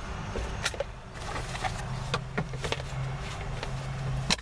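Small objects being handled in a car's front compartment: scattered light clicks and knocks, with a sharper click near the end, over a steady low hum.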